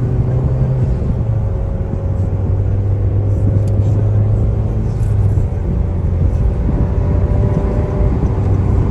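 Car engine droning at a steady pitch while cruising at constant speed, with road noise, heard from inside the cabin.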